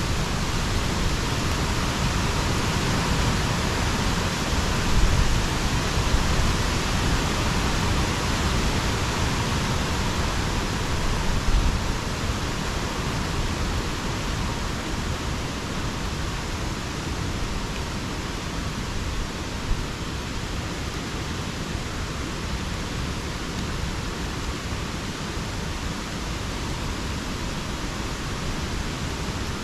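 Steady rain falling in rainforest, a dense even hiss, with low rumbling in the first half that fades out about twelve seconds in.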